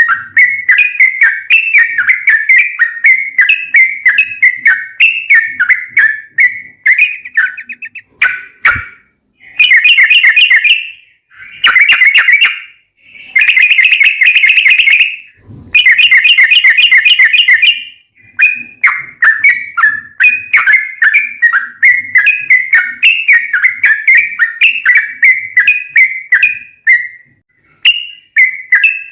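Yellow-vented bulbul (trucukan) singing: quick, bubbly phrases repeated again and again. About nine seconds in, the song breaks into several long, fast rolling trills (the 'ropel' the bird is prized for), then goes back to the bubbly phrases.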